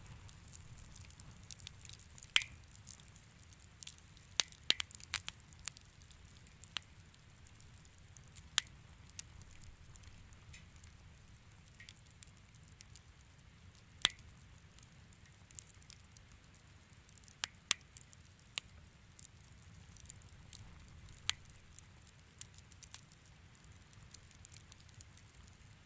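Wood fire crackling in a fireplace: sharp, irregular pops and snaps scattered over a soft, steady low rumble of the flames.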